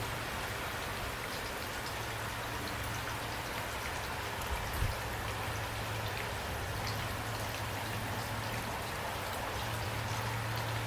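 Steady rain falling, with scattered drops ticking over an even hiss and a low steady rumble underneath. A single brief thump sounds about halfway through.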